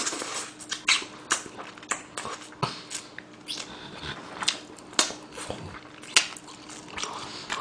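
Close-miked chewing and lip-smacking while eating fried chicken by hand: irregular wet clicks and smacks of the mouth, some sharper than others.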